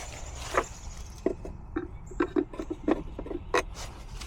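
Irregular small clicks and knocks, about a dozen in quick succession, from hands handling tools and a meter at the air-conditioner condenser.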